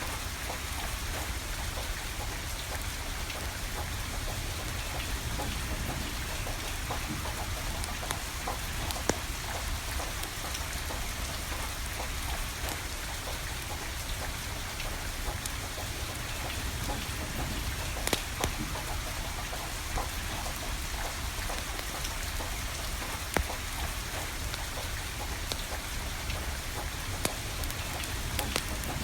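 Steady rain falling, with a wood fire crackling and sharp pops every few seconds.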